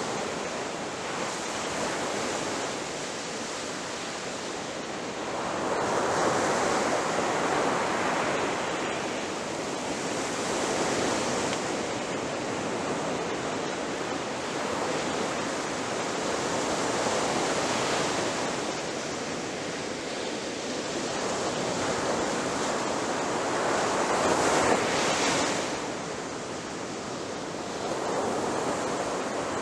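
Ocean waves breaking and washing on a shore, a steady rush of surf that swells with each wave every several seconds.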